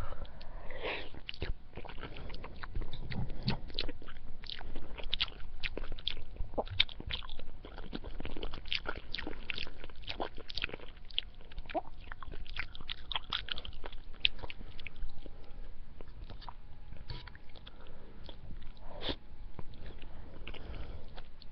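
Close-miked chewing of spaghetti, with many irregular wet mouth clicks and smacks.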